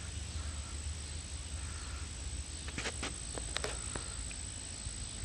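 Outdoor ambience: a steady high-pitched insect drone over a low rumble, with a few light clicks in the middle.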